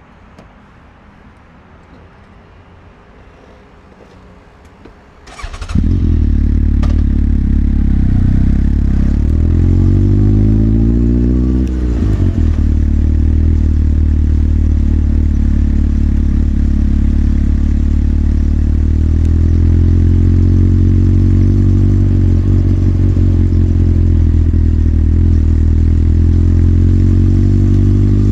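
Motorcycle engine being started about five seconds in, catching straight away after a brief starter noise and settling into a steady running note, with one rise in revs that drops back a few seconds later.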